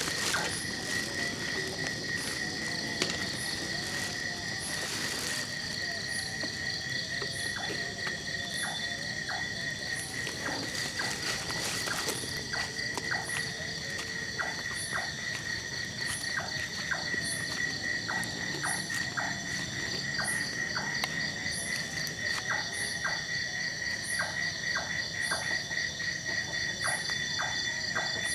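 Insect chorus of crickets or similar night insects: a steady, pulsing high trill, with a short, higher chirp repeating about once a second and scattered short clicks.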